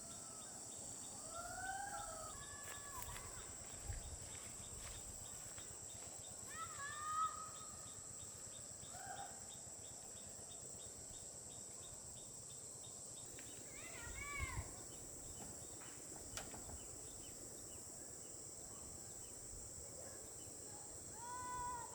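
Countryside insect chorus: a steady high drone and rapid, even cricket chirping, with a few short bird calls scattered through, about five in all.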